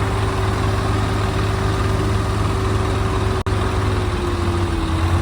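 Swaraj tractor's diesel engine running steadily at a low idle, its pitch easing down slightly near the end, with a momentary break in the sound about three and a half seconds in.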